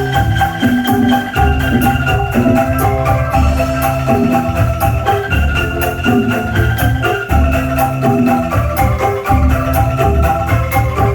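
Angklung ensemble music played loud through a sound system: quick repeated tuned bamboo notes over a deep, pulsing bass beat with a steady high ticking rhythm.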